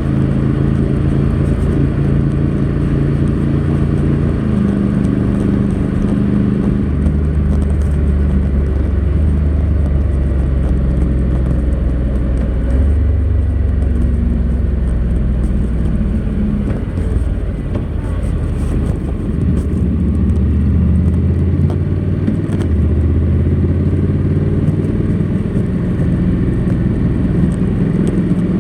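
Honda NC700X's 670 cc parallel-twin engine running through its stock exhaust while the bike is ridden. The engine note holds steady for stretches and steps up or down in pitch several times.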